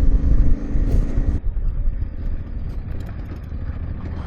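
Yamaha Ténéré 700's parallel-twin engine running on a steady throttle, then the throttle closes about a second and a half in and the sound drops to a lower, quieter rumble with a few faint knocks as the bike rolls over rough trail.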